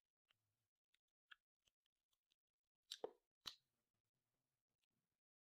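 Faint, sparse eating sounds: small clicks and smacks of chewing and gnawing meat off a tomahawk steak bone, with a couple of louder sharp ones about three seconds in.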